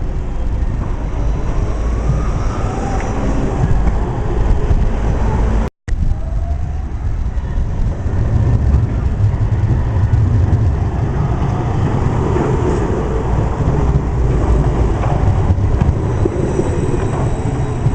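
Tram running on its rails, a steady low rumble with a motor whine gliding up and down in pitch. The sound cuts out completely for a moment about six seconds in.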